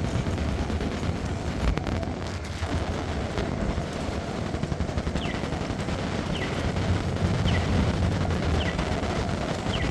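Rain falling, with dense crackling of drops close to the microphone over a low rumble. From about halfway through, a short falling chirp repeats about once a second.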